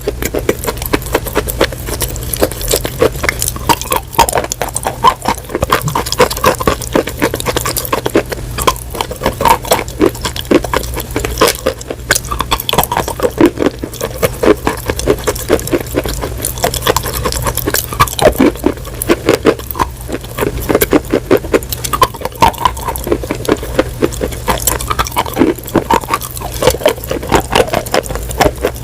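Close-miked crunching and chewing of something hard and brittle: a dense, continuous run of crisp crunches and crackles, with a steady low hum underneath.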